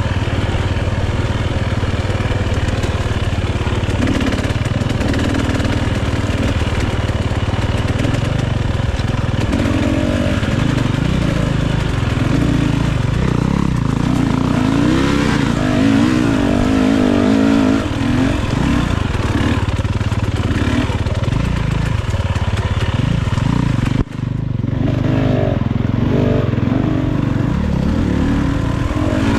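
Enduro dirt bike engine running under load over rough trail, the revs rising and falling as the rider works the throttle. Near the end the sound cuts off sharply for a moment, then comes back.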